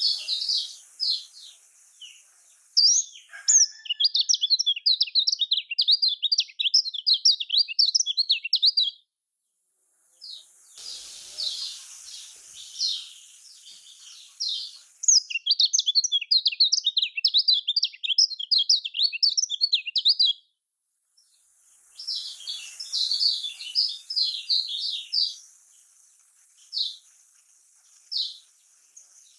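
Kecial kuning white-eye singing a fast, high-pitched chattering song in bouts of several seconds, with short pauses between them.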